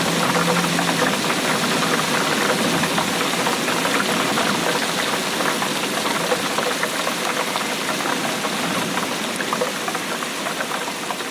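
Steady rainfall: a dense patter of drops hitting a surface.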